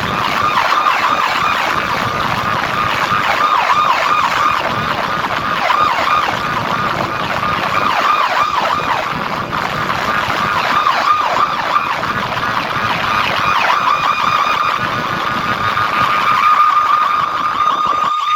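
Siren-style warbling sound effect played loud through a DJ loudspeaker rig during a sound test: a dense, continuous wavering wail that keeps hovering around one pitch.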